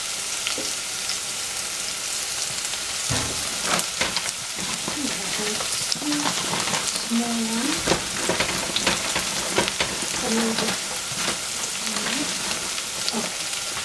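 Oyster mushrooms frying in hot oil in a stainless steel saucepan: a steady sizzle, with a few knocks a few seconds in.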